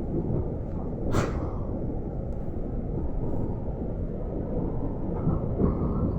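GO Transit commuter train running along the track, heard from inside a coach as a steady low rumble. A single sharp knock sounds about a second in.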